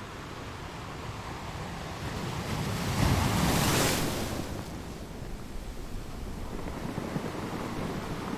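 Sea waves breaking on a shore: a steady surf hiss that swells into one loud wave crash about three seconds in, then washes back down.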